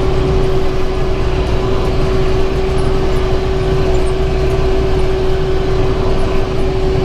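Tractor engine running steadily under load while driving a round baler off the PTO, picking up hay. A low drone with one constant whine over it.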